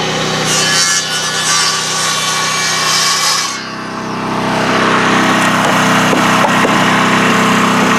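Engine idling steadily, with a rough scraping, rubbing noise over it for about three seconds near the start.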